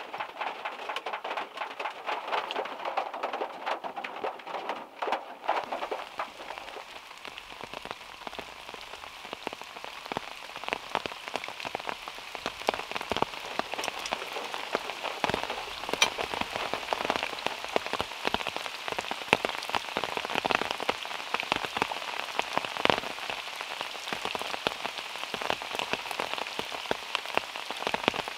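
Rain pattering on a small car, a dense patter with many sharper individual drop hits, including heavier drips falling from the trees. About six seconds in, the patter turns brighter and higher.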